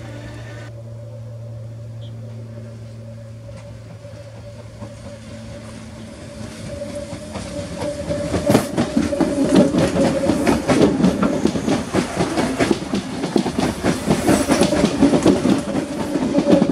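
CPTM Série 1700 electric multiple-unit train approaching and passing close by. A steady whine grows louder from about six seconds in, then a rapid clatter of wheels clicking over the rail joints as the cars go past.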